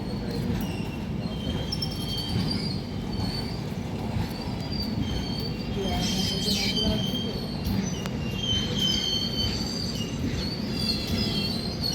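Train running on rails with a steady low rumble and repeated high-pitched wheel squeals that come and go every second or so.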